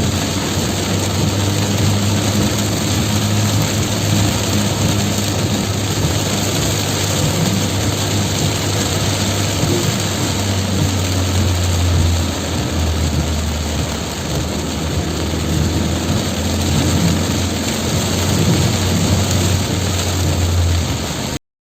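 Heavy rain falling, with a vehicle's engine giving a steady low hum underneath; the sound cuts off suddenly near the end.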